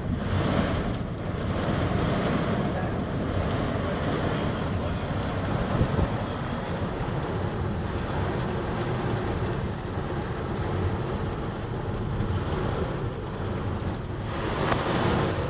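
Steady rushing noise of a thunderstorm's heavy rain and wind.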